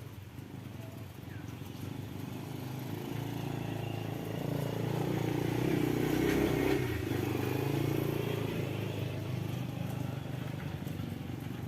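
A motorcycle passing by: its engine grows louder to a peak a little past the middle, then fades away.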